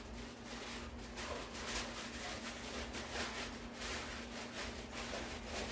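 Aluminium foil crinkling and rustling in irregular crackles as a radish is wrapped in it by hand, over a faint steady hum.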